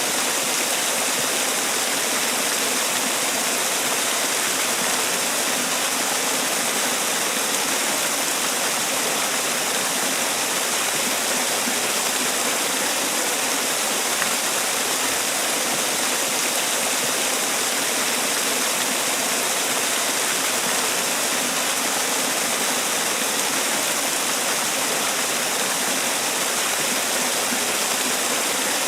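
Man-made waterfall: water falling and splashing in a steady, even rush, with most of the sound in the higher hiss and little deep rumble.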